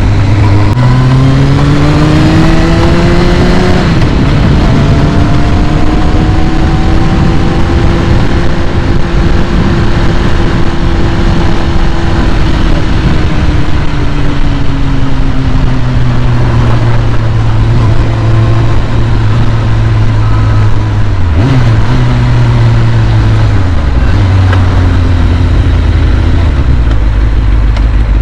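2001 Kawasaki ZX-6R's carbureted inline-four running at a raised idle while warming up from a cold start. The engine speed climbs over the first few seconds, wanders up and slowly back down, then drops in steps near the end.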